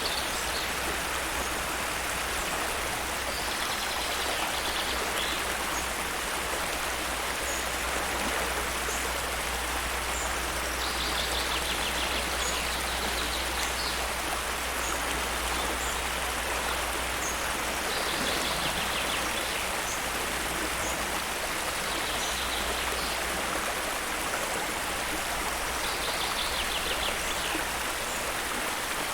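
Steady rushing water, an even wash of noise with a low rumble beneath it. Short high trills recur every several seconds over it, with faint high chirps between them.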